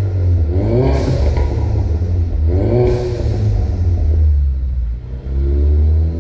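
Ford Mustang EcoBoost's turbocharged 2.3-litre four-cylinder, breathing through a Milltek cat-back exhaust, revved twice from idle about two seconds apart. Each rev ends in a short hiss as the throttle closes, typical of the aftermarket blow-off valve venting, before the engine settles back to a steady idle.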